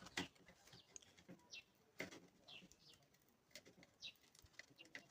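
Near silence with a few faint, short bird chirps and a couple of light clicks.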